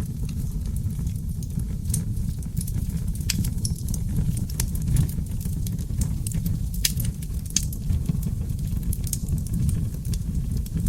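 Seasoned oak logs burning in a fireplace: a steady low roar of flames with frequent sharp crackles and pops, a couple of louder pops about seven seconds in.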